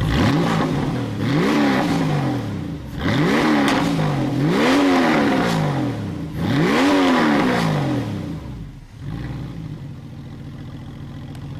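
Porsche 993 Carrera's 3.6-litre flat-six, breathing through home-made mufflers, blipped about five times in quick succession. Each rev rises and falls back before the engine settles into a steady idle about two-thirds of the way through.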